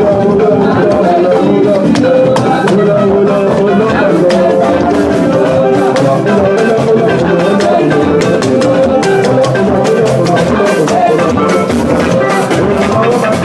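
Church band music with a drum kit and shaker percussion keeping a busy, steady beat under sustained pitched instruments.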